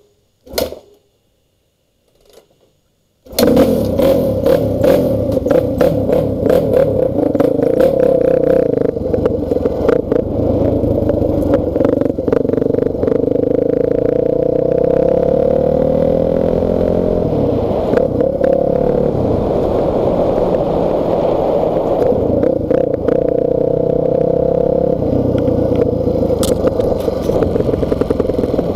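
A couple of faint knocks, then about three seconds in a dirt bike's engine comes in loud and keeps running as it is ridden, its pitch rising and falling with the throttle.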